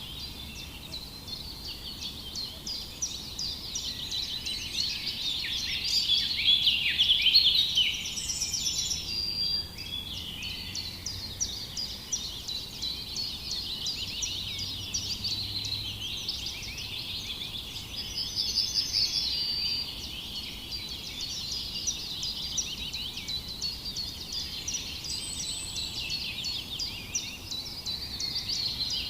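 A chorus of many birds chirping and twittering, with short rapid calls overlapping without a break, loudest a few seconds in.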